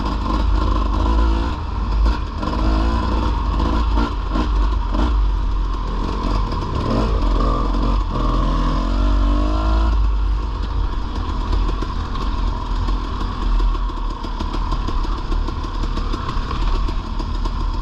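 Off-road dirt bike engine ridden slowly over rough trail, the revs rising and falling as the throttle is worked on and off through the first half, then steadier, with knocks and clatter from the bike over the bumps.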